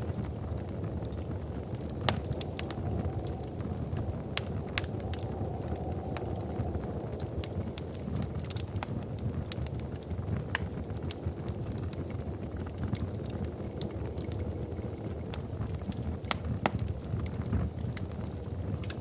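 Wood fire crackling in a fireplace: a steady low rumble of flame with irregular sharp pops and snaps. The loudest pops come about two seconds in and again near the end.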